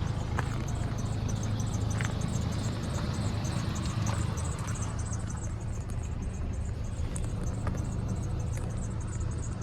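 2004 Chevrolet Colorado pickup's engine idling steadily, with a fast, high-pitched ticking over it, about five a second.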